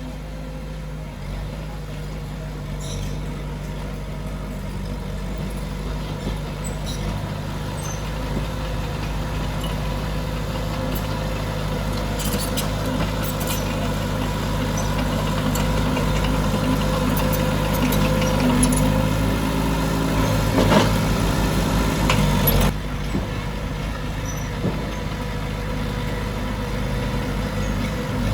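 Diesel engine of heavy earthmoving machinery running steadily and slowly growing louder, with scattered metallic clicks and a short clatter about twenty seconds in.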